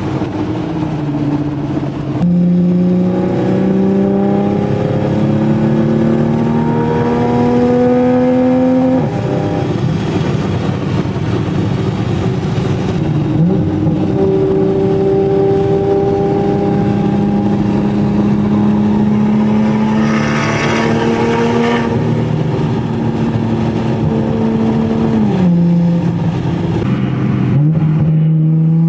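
2020 Toyota Supra's B58 3.0-litre turbocharged inline-six through a straight-piped exhaust, pulling through the gears. The engine pitch climbs and drops at upshifts about two seconds in and again near nine seconds, then holds and slowly rises before stepping down twice near the end.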